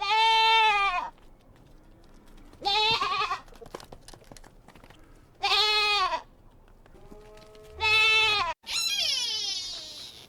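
Livestock bleating: four separate calls, each about a second long with a few seconds between them. Near the end, after a sudden break, a different animal call with falling pitch begins.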